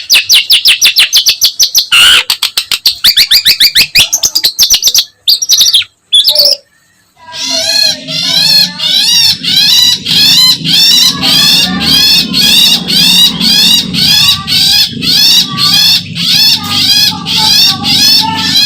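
Long-tailed shrike (pentet) singing: a rapid run of sharp, chattering repeated notes for about six seconds, a brief pause, then a steady string of repeated whistled notes, about two or three a second, over a low steady hum.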